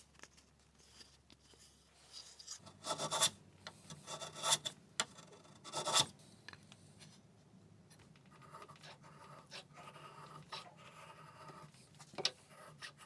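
Wood being worked by hand: a few sharp scraping strokes a few seconds in, then softer, steady rubbing with light taps, as the mitered bridle joints for the frame corners are cut and fitted.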